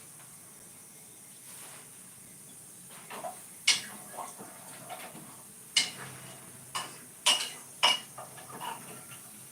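A series of sharp clinks and clatters, about half a dozen spread over the second half, over a faint steady background hum.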